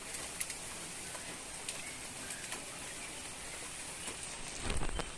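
Light rain falling: a steady patter with scattered single drops ticking, and a brief louder rustle near the end.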